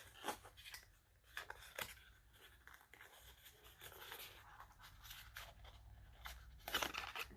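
Faint rustling and light clicks of product packaging being opened and handled, with a short cluster of louder crinkles near the end.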